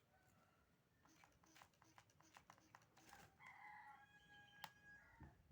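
A rooster crowing once, faint: a single drawn-out call of about two seconds, starting a little after halfway and stepping down then levelling off. Light clicks and taps come before it.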